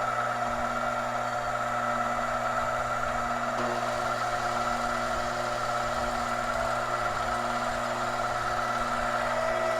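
Two stand mixers running together on the slowest speed, an AC universal-motor mixer and a KitchenAid Professional 6000 HD with a DC motor, giving a steady motor whine and hum. The AC-motor mixer is the noisier of the two.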